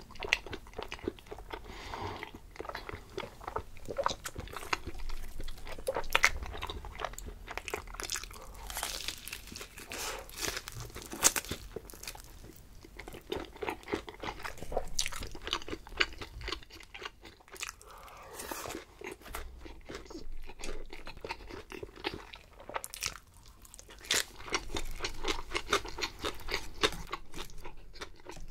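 Close-miked eating: a person biting, crunching and chewing food, with many sharp, irregular crunches and a brief lull about two-thirds of the way through.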